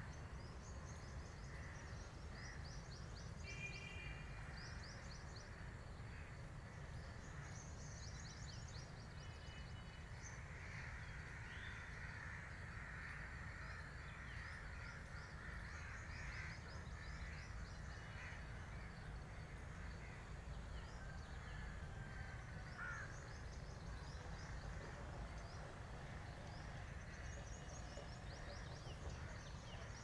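Birds calling: quick runs of high chirps recurring throughout, with harsher, cawing calls through the middle, over a steady low rumble.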